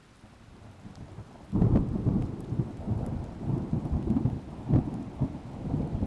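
Thunder rumbling: it builds faintly, breaks in sharply about a second and a half in, then rolls on with several louder peaks.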